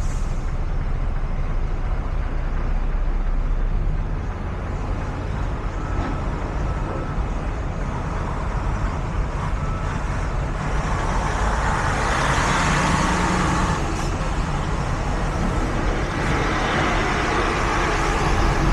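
Semi truck's diesel engine running steadily with road noise while the rig is driven, with two stretches of louder hiss, one about two-thirds of the way in and another near the end.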